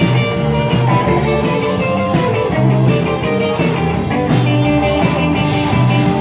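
Live rock and roll band playing an instrumental passage, guitar to the fore over a steady bass line.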